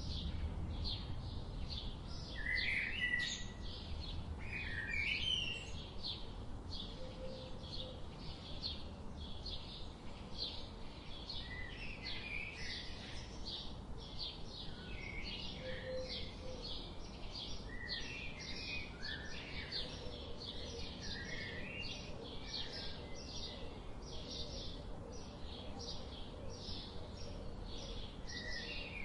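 Forest birds chirping and calling: a steady run of short high chirps, about two or three a second, with other birds' short call phrases scattered over it, above a low, even background rumble.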